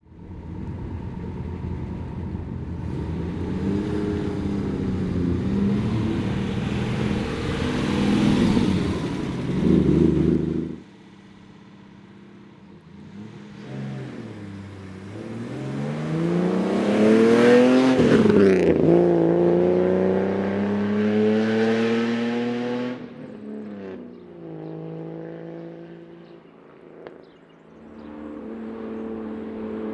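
1957 Mercedes-Benz 220SL prototype's engine running and revving for about ten seconds, then cutting off abruptly. It then accelerates toward and drives past, its pitch dropping sharply as it passes, and pulls away until it fades. Near the end the engine is heard again, running steadily.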